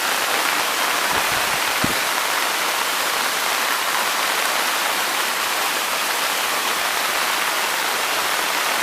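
Waterfall: a steady, even rush of falling water, with a brief low bump about two seconds in.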